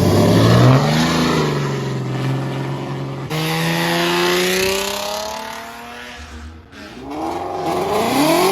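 Car engine accelerating hard, its pitch climbing, then a sudden break about three seconds in and a second climb like a gear change. Near the end the revs rise and fall again.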